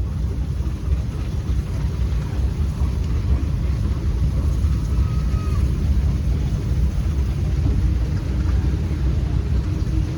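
Low, steady rumble of parade engines passing, with no whistle heard.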